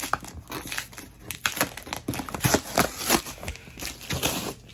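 Packaging paper and plastic crinkling and rustling in irregular handfuls as items are pulled out of a mail-order box, busiest in the second half.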